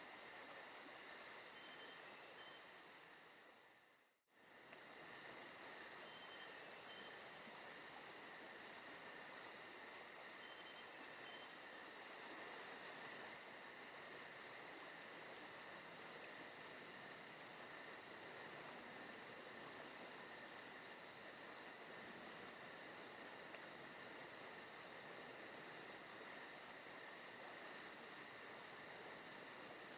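Faint recorded forest ambience of crickets chirping steadily in a fast, even pulse. It fades out for a moment about four seconds in and comes straight back.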